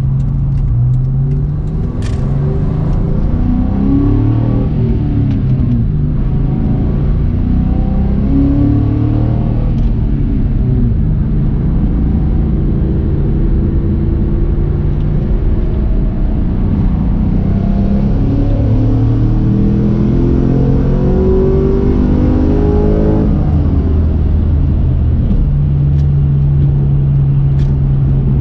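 2004 Ford Mustang Mach 1's V8 engine under acceleration: its pitch climbs in two stretches, one a few seconds in and one past the middle, then settles to a steady drone near the end.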